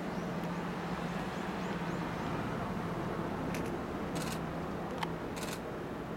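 Izu Kyuko 'Kurofune' electric train approaching with a steady low hum and running noise. Camera shutters click in quick bursts about three and a half seconds in, again just after four seconds, and around five and a half seconds.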